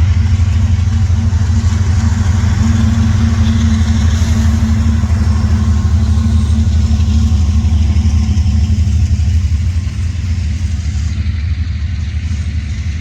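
Freight train in motion, heard from on board: a loud, steady low rumble with rushing noise above it.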